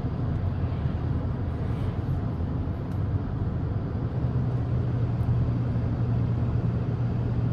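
Steady low rumble of a moving car heard inside its cabin, road and engine noise, growing a little stronger about four seconds in.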